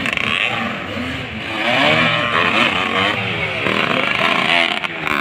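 Motocross bike engines revving on the track, their pitch rising and falling again and again as the riders work the throttle.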